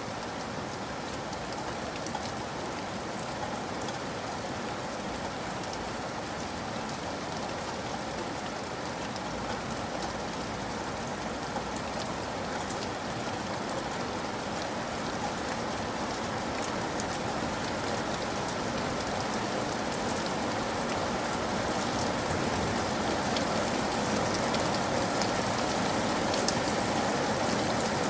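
Steady heavy rain falling, with the patter of individual drops striking a surface, growing gradually louder.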